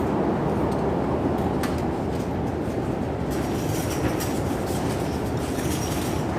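Strong storm wind buffeting the phone's microphone: a loud, steady low rumble, with a few faint clicks and more hiss in the second half.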